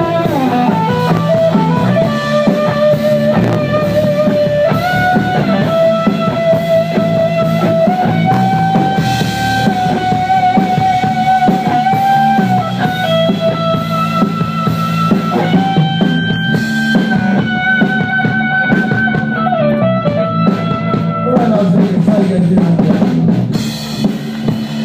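Live rock band playing an instrumental passage: a lead guitar holding long notes with bends and vibrato over drum kit and bass.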